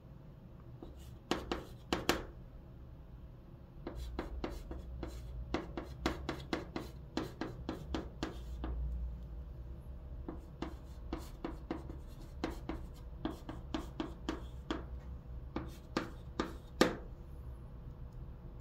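Chalk writing on a blackboard, hanja characters written stroke by stroke: quick taps and short scrapes of the chalk in rapid runs, with a couple of sharper taps early on and a loud one near the end.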